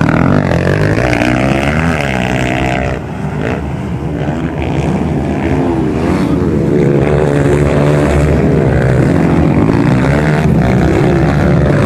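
Several motocross motorcycle engines racing, their pitch climbing and dropping over and over with throttle and gear changes. They grow louder about halfway through.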